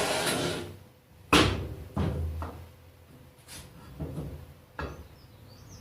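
Heavy metal parts of a Parkinson quick-action vice clunking and knocking as they are handled and taken apart. A short scraping rush at the start, a loud knock about a second and a half in, two lighter knocks soon after, and a sharp click near the end.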